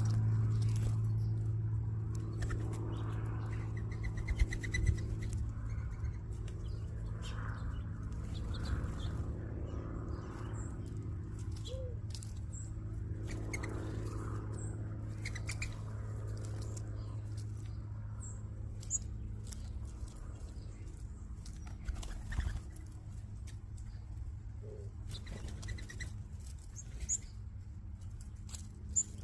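A flock of small birds feeding: scattered short chirps, wing flaps and pecking clicks over a steady low hum.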